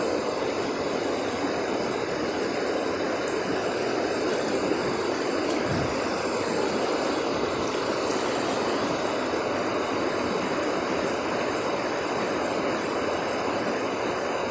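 Swift river current rushing steadily, a river running fast after rain.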